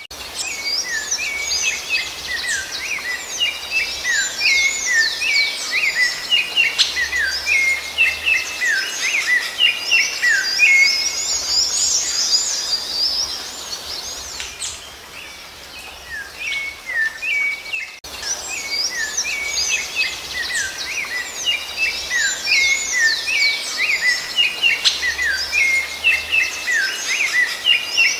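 Songbirds singing: a dense run of quick chirps and short gliding whistles. It thins out a little past halfway, then starts again at full density.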